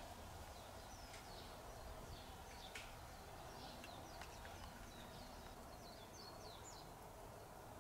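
Faint chirps and short calls of small birds, many in quick succession, over a low, steady background noise.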